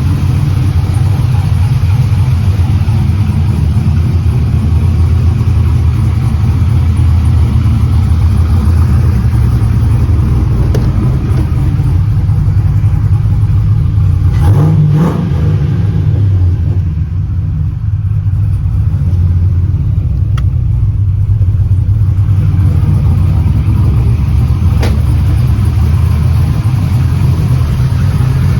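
6.0-litre LS V8 truck engine running steadily at idle, with one brief rev about halfway through.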